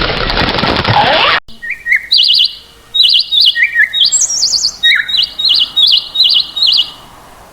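A bird calling in a run of about a dozen short, high, wavering chirps. Before it, a loud, dense, noisy sound cuts off suddenly about a second and a half in.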